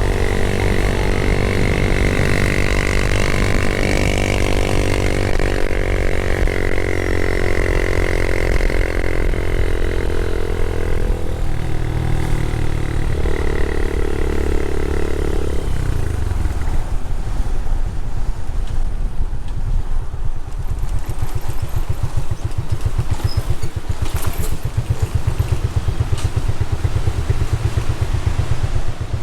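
Motorcycle engine running while riding. Its note drops in steps about eleven and sixteen seconds in as the bike slows, then it settles into a low, even putter.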